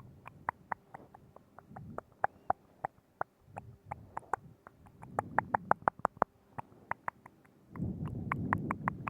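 Wet mouth sounds right at the microphone: rapid tongue and lip clicks, several a second, with soft breathy swells in between, the longest near the end.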